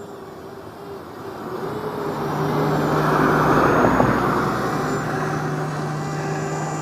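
A road vehicle passing by, its noise swelling to a peak about three to four seconds in and then slowly fading, over a steady low hum.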